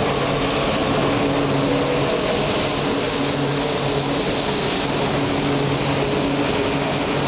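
E4 series Shinkansen train at the platform, giving a steady hum over an even rushing noise.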